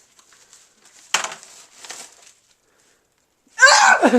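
Wrapping paper rustling and tearing as a present is unwrapped, then near the end a sudden loud shout of surprise.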